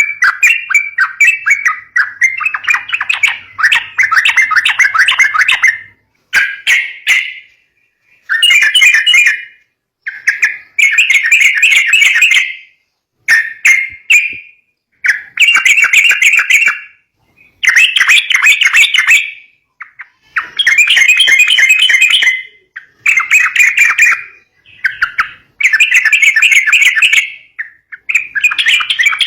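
Yellow-vented bulbul (trucukan) calling in loud, chattering phrases of one to two seconds each, with short pauses between them.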